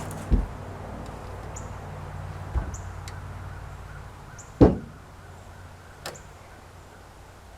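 Four separate knocks or clunks, the third one loudest, over a low steady hum that slowly fades.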